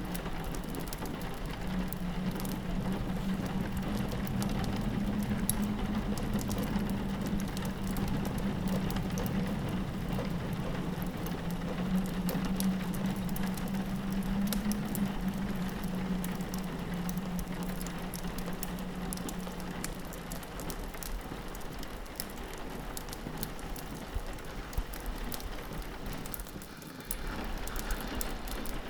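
Layered ambience of rain pattering on a window with a fireplace crackling in fine irregular clicks, over a low steady drone that fades out after about twenty seconds; the whole bed dips briefly near the end.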